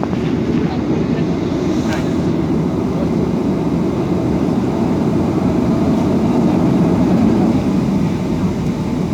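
Airliner cabin noise: a steady, loud rumble of engines and airflow heard from inside the passenger cabin, swelling slightly toward the end.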